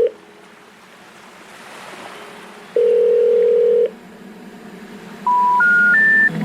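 Soft surf-like hiss of sea waves under electronic beep tones: one steady low beep lasting about a second, then near the end three short beeps, each higher than the last.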